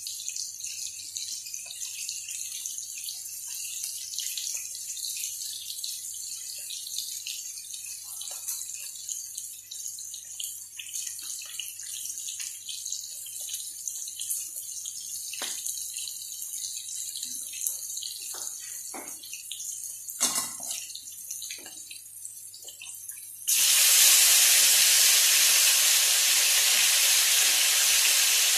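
Shrimp frying in oil in a wok: a steady high sizzle with scattered crackles and pops. About 23 seconds in it jumps suddenly to a much louder, fuller sizzle as the bow-tie pasta is tipped into the hot pan.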